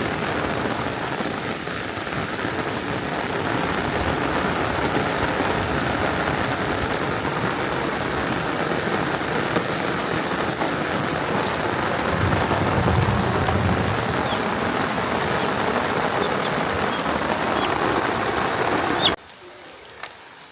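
Heavy rain falling steadily, with a low rumble about two-thirds of the way through. It cuts off abruptly about a second before the end.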